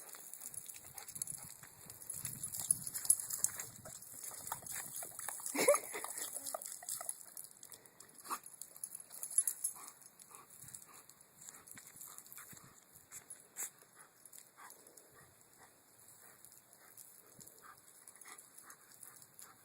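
German Shepherd dog giving one short cry that falls in pitch about five and a half seconds in, among scattered soft clicks and patter.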